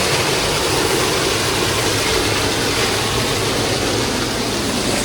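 Waterfall water rushing steadily, a constant even noise.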